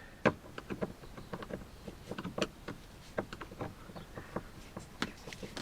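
Irregular small clicks and taps of a screwdriver and plastic trim as the screws holding a Land Rover Discovery 2's rear door panel are worked out.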